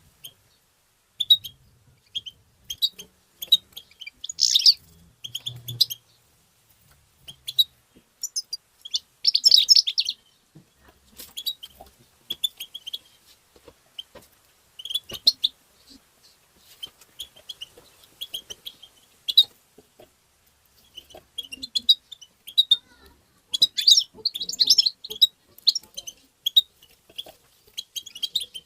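European goldfinch call notes: quick, high twittering chirps in irregular bursts with short pauses between them.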